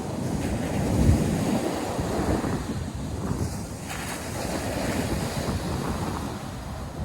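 Ocean surf breaking and washing on a beach, with wind buffeting the microphone in gusts, strongest about a second in.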